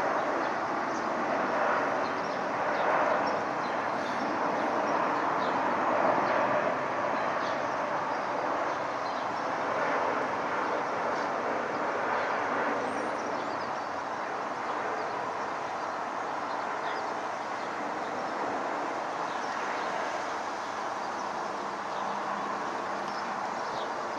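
Jet airliner engine noise from an Airbus A350-941's Rolls-Royce Trent XWB turbofans: a steady rushing rumble that eases a little toward the end.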